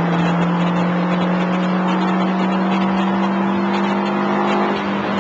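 Fiat Grande Punto's engine heard from inside the cabin, pulling at speed with its note slowly rising under acceleration, easing off briefly near the end.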